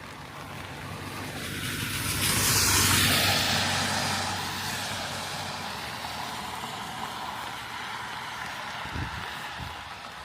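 A motor vehicle passing on a wet road: the tyre hiss swells to a peak about three seconds in, then fades slowly.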